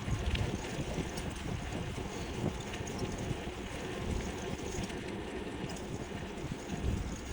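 Wind rushing and buffeting on the microphone while riding an e-bike, a steady noisy rush with a low rumble.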